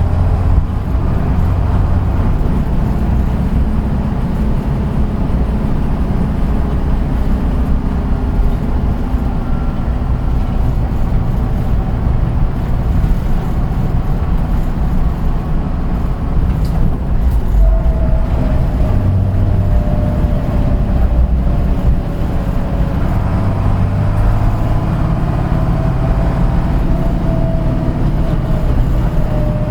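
Route bus heard from inside the cabin: engine and drivetrain running with a steady low rumble. A wavering whine comes in a little after halfway.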